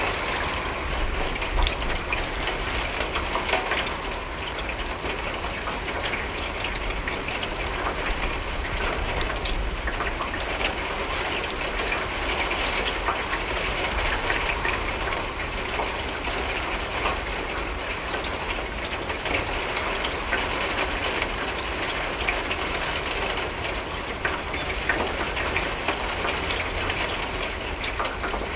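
Steady rain falling on a window pane, a dense patter of many small drop impacts with a low rumble beneath.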